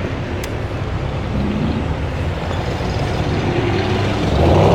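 Car engines running with a steady low rumble, which grows louder about four seconds in.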